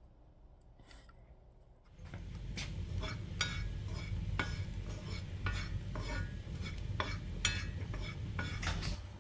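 A utensil stirring and scraping in a container, with repeated clinking strokes about once or twice a second over a steady low rumble. It starts about two seconds in.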